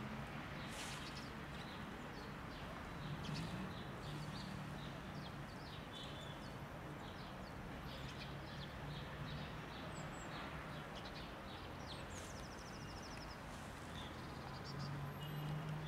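Small birds chirping and twittering at intervals, with a short rapid trill about twelve seconds in, over a steady low hum.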